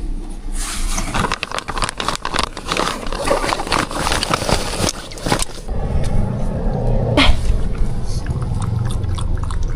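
A pet dog making sounds among irregular clicks and rustling. A low steady hum comes in about halfway through.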